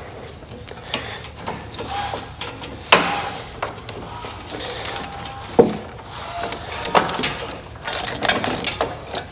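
Metal hand tools clinking and knocking against metal parts, with a few sharper knocks about three seconds in and near six and seven seconds, and a cluster of small clinks near the end.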